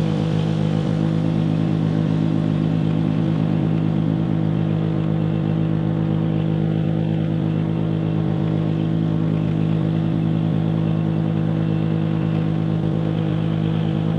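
Lawn mower engine running at a steady, unchanging speed while towing a chicken tractor.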